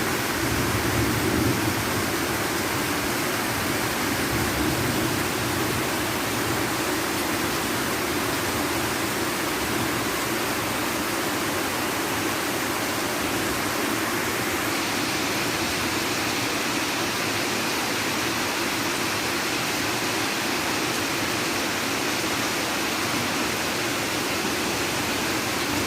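Steady heavy rainfall, an even hiss, with a low rumble fading out in the first two seconds. About halfway through the hiss turns brighter and sharper.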